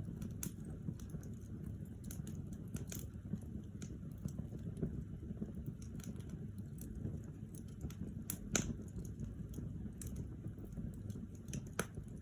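Wood fire burning in a fireplace: steady low rumble of the flames with irregular crackles and pops from the burning logs, the sharpest pop about eight and a half seconds in.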